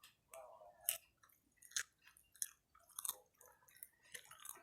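A person chewing crunchy fried snacks (gorengan) close to the microphone, with a handful of short, sharp crunches spread through.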